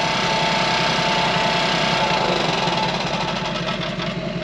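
Engine running steadily at idle, with an even low pulse. A thin steady whine fades out about three seconds in, and the sound drops slightly near the end.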